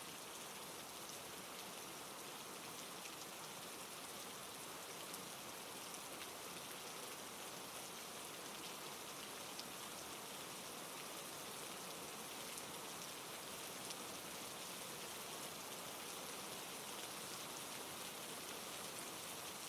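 Steady rain falling, an even hiss of water with faint scattered drop ticks.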